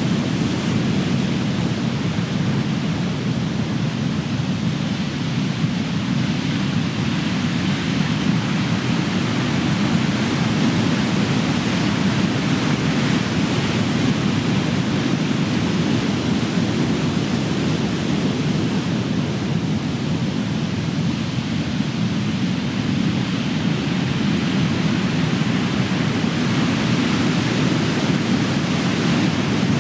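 Big ocean waves breaking: a continuous deep rush of surf that swells and eases slowly, with no single sharp crash standing out.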